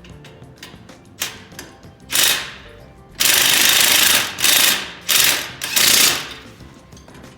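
Pneumatic impact wrench rattling in about six bursts, the longest about a second, over background music.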